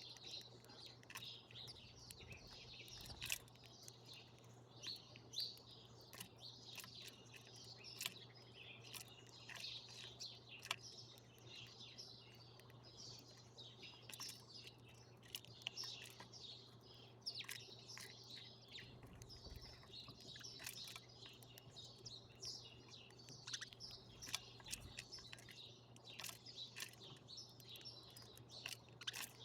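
Small songbirds chirping and twittering at a feeder: a continuous chatter of many short, overlapping chirps, over a faint steady low hum.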